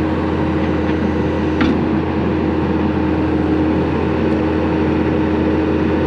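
Diesel engine of heavy earthmoving equipment running steadily at a constant pitch, with a single short clank about a second and a half in.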